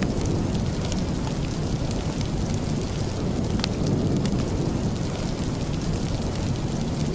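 Steady rain, a dense low rushing wash, with faint sharp clicks scattered through it.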